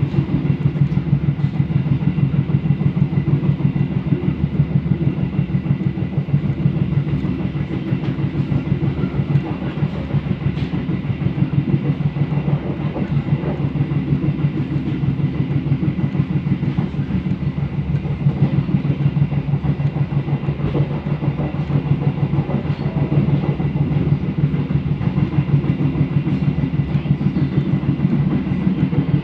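Pariaman Express passenger train running along the line: a steady, loud low rumble with fast, even pulsing and a faint steady high whine above it.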